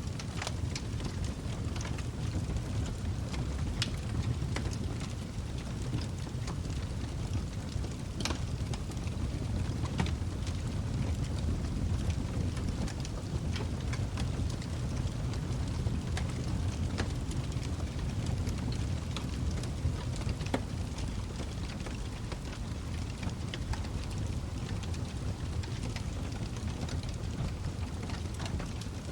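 Log fire crackling in a fireplace: a steady low rumble of burning, with scattered sharp pops and snaps throughout.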